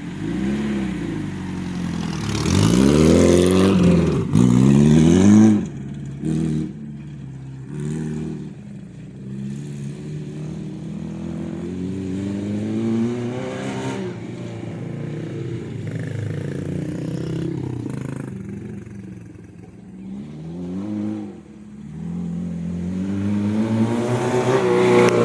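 Acura RSX's four-cylinder engine accelerating hard and shifting gears, its pitch climbing and dropping with each shift: several quick rev-and-shift cycles in the first few seconds, then longer, slower pulls.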